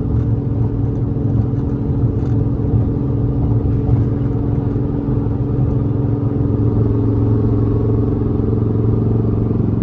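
Dodge SRT8's 392 Hemi V8 running steadily with a misfire, not running smooth. The misfire is logged as cylinder 4 and random misfires, which the owner suspects come from worn lifters and cam.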